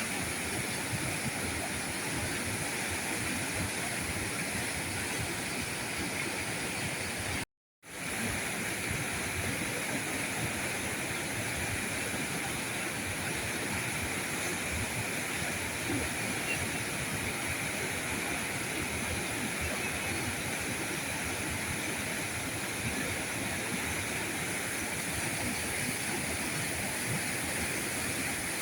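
River current rushing steadily. It cuts out completely for a split second about seven and a half seconds in, then resumes unchanged.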